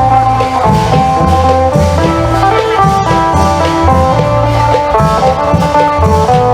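Isan phin (plucked lute) playing a quick stepping melody over low bass notes and drum beats of a klong yao long-drum band.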